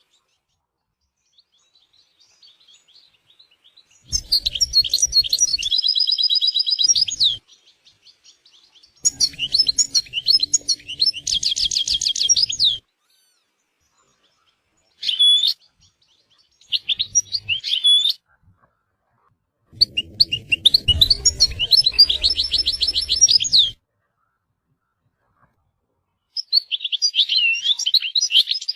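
European goldfinch singing: bouts of fast, twittering song with rapid trills, each lasting a second to a few seconds, separated by short pauses.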